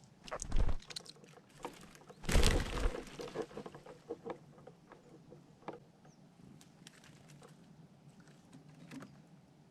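Two loud bumps with rustling close to the microphone, the first about half a second in and a longer one around two and a half seconds, followed by scattered light clicks and scratching taps.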